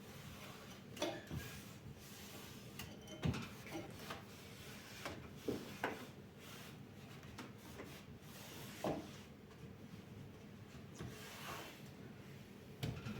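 Scattered light knocks and rubbing of household items being handled, about eight in all and irregularly spaced, over a faint steady hum.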